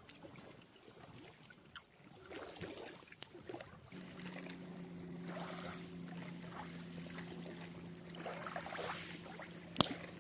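Campfire crackling with occasional sharp pops, over a steady high-pitched whine; from about four seconds in a low steady hum joins.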